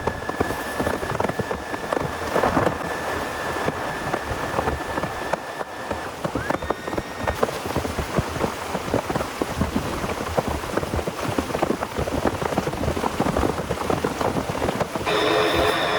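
Heavy rain falling and striking a surface as a dense, irregular spatter of drops. A thin steady high tone sits under it for the first six seconds, then a short rising tone, and a brief pitched sound comes near the end.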